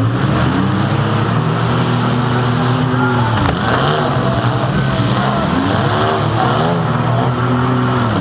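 Compact demolition derby car's engine running loud, heard from inside the cabin, its pitch rising and falling several times as the throttle is worked.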